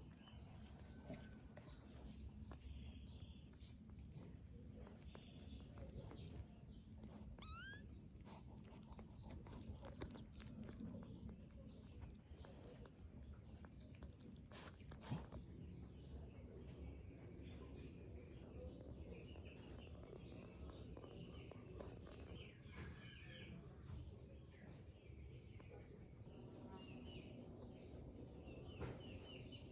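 A hushed background with a steady high-pitched whine, faint scattered animal squeaks and chirps, and a low rumble.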